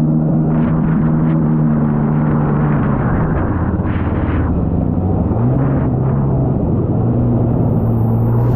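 Jet ski engine running hard under way, with rushing water and wind noise. Its pitch drops about three seconds in as the throttle eases, rises briefly a couple of seconds later, and climbs again near the end.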